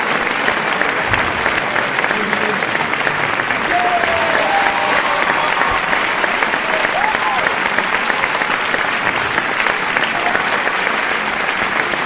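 Crowd applauding steadily: many people clapping at once in a dense, even patter, with faint voices in the crowd.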